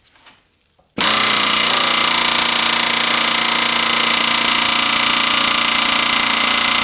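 Pneumatic air hammer running in one long steady burst, starting about a second in and stopping near the end, working at a rusted-on part on the engine's crankshaft that does not budge.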